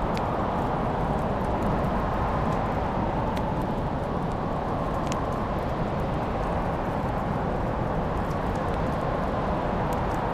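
Wood fire crackling: a steady low rushing with small sharp pops scattered throughout, a few louder ones among them.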